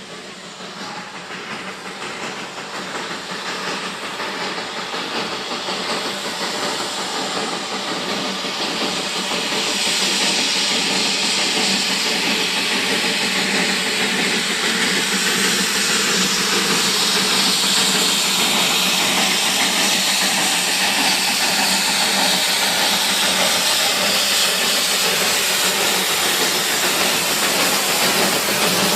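Darjeeling Himalayan Railway toy train with a steady hiss, growing louder over the first ten seconds and then holding steady.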